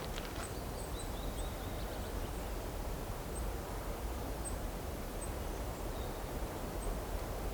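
Open countryside ambience: a steady low breeze rumble with faint, scattered short high-pitched bird chirps, and a brief warbling birdcall about a second in and again near six seconds. A couple of footstep clicks fall in the first half second.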